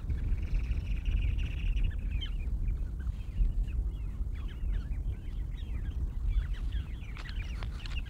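Parasitic jaegers calling in alarm at an intruder near their nest. There is one long, nasal, pulsing call, then a rapid string of short, sharp calls, over a low rumble of wind on the microphone.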